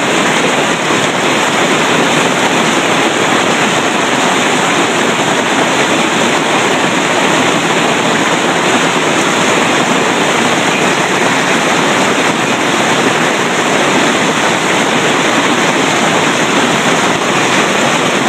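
Golf-ball-size hail driven sideways by wind, falling in a loud, steady, dense rush of impacts with no letup.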